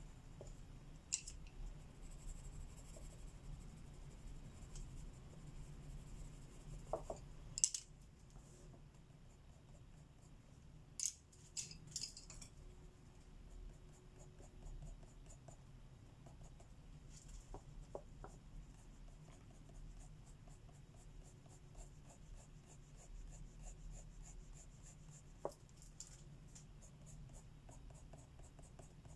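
Faint pencil strokes scratching on paper during colouring, turning into a long run of quick, even shading strokes in the second half. A few sharp clicks come in the first twelve seconds, the loudest about eight seconds in.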